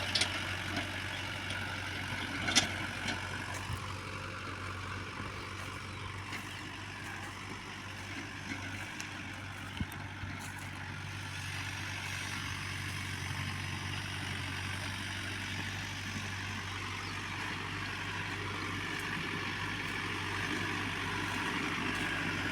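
Tractor engine running steadily while pulling a computer-controlled land leveller, with a couple of short knocks about two and a half and ten seconds in.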